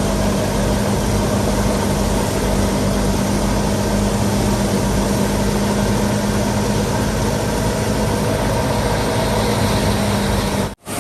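Fiat 480 tractor's diesel engine running steadily under load while driving a wheat thresher, with a constant hum from the machinery. The sound cuts out for an instant near the end.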